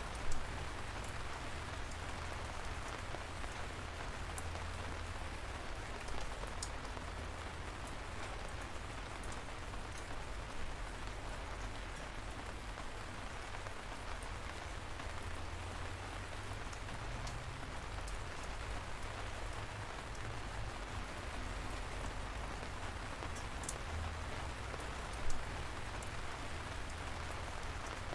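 Steady light rain: an even hiss with scattered drips, and a few louder single taps about a second in, near the middle and near the end.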